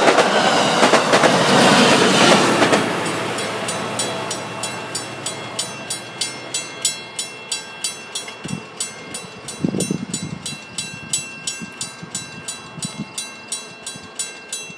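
Commuter train of bilevel coaches passing close by at speed, its wheels clattering over the rails, fading away after about three seconds. Then a grade-crossing bell keeps ringing at about two or three strokes a second.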